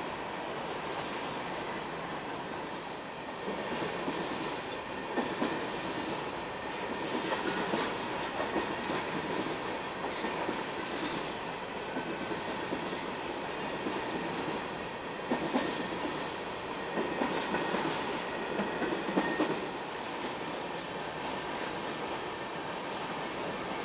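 Train cars rolling past, their wheels clicking and knocking irregularly over the rail joints, busiest from about four to twenty seconds in.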